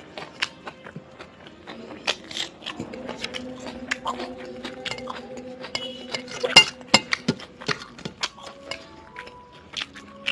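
Close-miked eating: mouth sounds of chewing and biting with many sharp clicks, and clinks of dishes or cutlery, over soft background music with long held notes.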